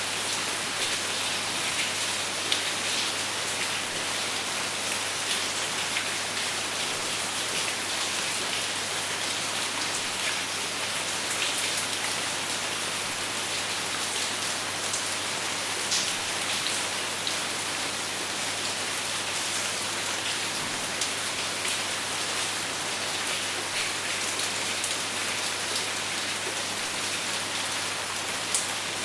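Steady rain falling, a dense even hiss with scattered individual drops ticking, and no thunder.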